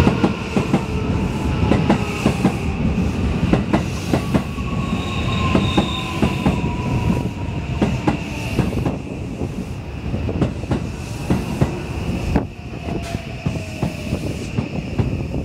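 JR West 323 series electric commuter train running past along a curved platform track. Its wheels clack over the rail joints, and a steady high squeal comes from the wheels on the curve. The sound eases off toward the end as the last car goes by.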